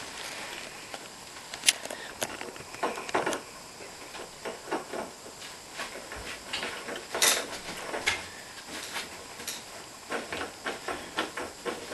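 Irregular clicks, taps and light clatter of metal parts being handled and fastened during reassembly of a dishwasher's door hinge assembly. There is a sharper click about two seconds in and another about seven seconds in.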